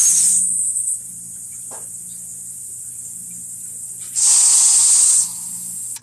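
Three bursts of loud hissing, each about a second long, over a low steady hum.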